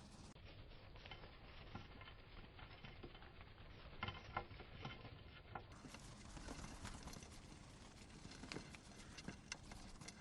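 Faint, irregular clicks and taps over a low background rumble, a little louder around the middle and near the end.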